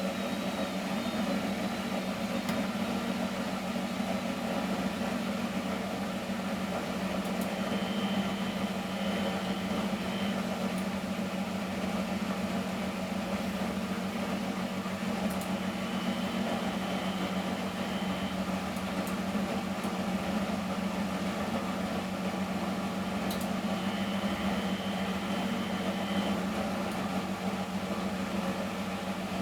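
Miele Professional WS 5426 washing machine running steadily through a 95°C boil wash, a constant low hum under an even mechanical noise. A faint high whine comes for about two seconds roughly every eight seconds.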